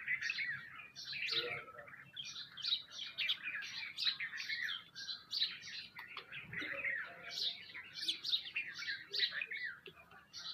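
Many small birds chirping at once: a dense, unbroken chorus of short, overlapping high chirps.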